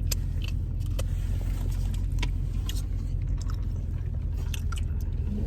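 Steady low rumble of a car heard from inside the cabin, with scattered light clicks and rattles over it.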